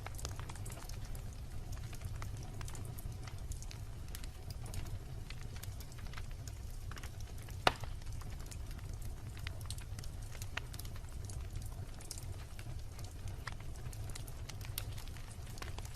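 Wood campfire burning, with a steady low rumble of the flames and frequent small crackles and pops of burning wood; one loud sharp pop about halfway through.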